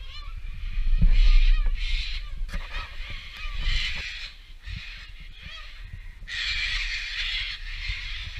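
A flock of large dark birds calling in repeated harsh calls, with a longer run of calling from about six seconds in; wind rumbles on the microphone underneath.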